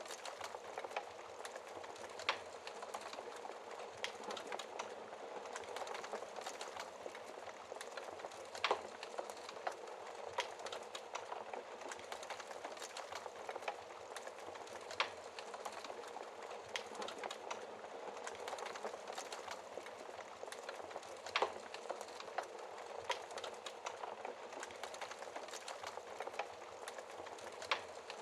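Wood fire burning in a fireplace: a steady crackle of small snaps, with a louder pop every few seconds.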